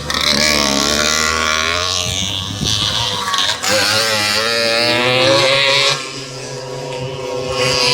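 Small 50cc two-stroke motocross bike engines revving hard, their buzzing pitch climbing and dropping again and again as the riders open and close the throttle and shift gears.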